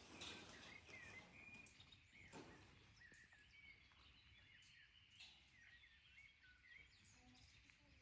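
Faint birdsong: many short, high chirps scattered through, over a low, steady background hiss.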